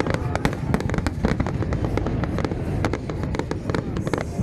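Fireworks display: a dense, continuous barrage of rapid bangs and crackles over a low rumble, many reports every second with no pause.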